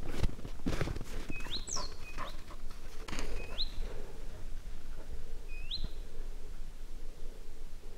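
Small songbird calling: four short whistled notes, each sliding upward, spread over several seconds, with one quick falling note among them. Several sharp clicks sound in the first second and again about three seconds in.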